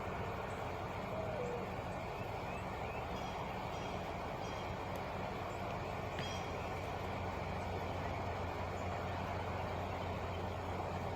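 Truck engine idling steadily, a constant low hum, with a few faint bird chirps.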